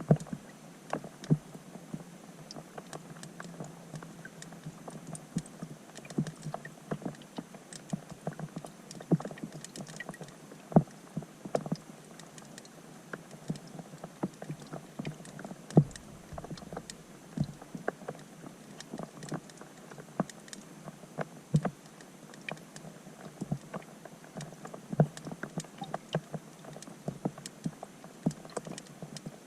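Rain falling on a pond, heard from underwater through a GoPro's waterproof housing: a dense, irregular patter of sharp drop ticks over a steady hiss.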